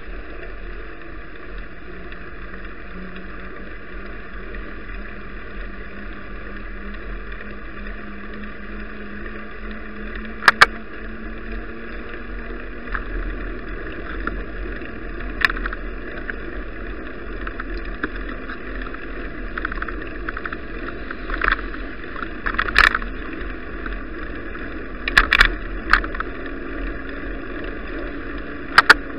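Steady hiss of bicycle tyres on a wet, slushy road, with sharp knocks and rattles from bumps several times. A faint low hum slowly rises in pitch through the first half.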